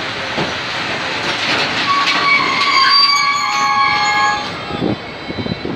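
Freight train of Eanos open wagons rolling past with a steady rumble. About two seconds in, the wheels set up several high, steady squealing tones that start one after another and die away after about two and a half seconds. Near the end come uneven wheel knocks over the rail joints.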